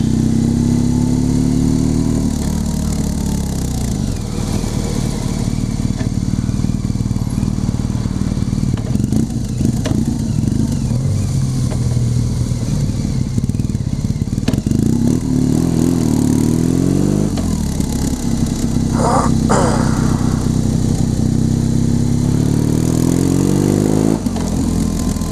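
BMW motorcycle engine under way, heard from the rider's seat. It climbs in pitch as the bike accelerates, then drops at a gear change about two seconds in, and the same rise and drop comes again twice in the second half.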